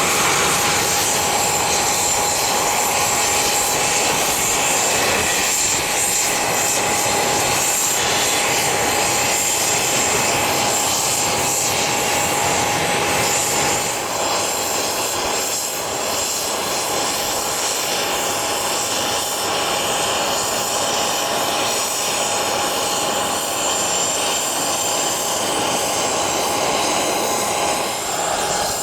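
Private jet's engines running steadily, a constant loud rush with a high whine and a held tone.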